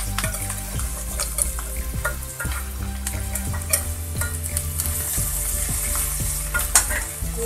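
Chopped ginger, garlic and green chilli sizzling in hot oil with cumin, carom seeds and asafoetida in an aluminium kadhai, as the last of it is scraped in from a steel bowl and stirred with a spatula. A steady sizzle runs under many sharp clicks of metal on metal.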